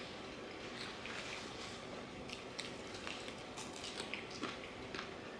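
Fried chicken being bitten and chewed: faint wet squishing with many small, scattered crackly clicks.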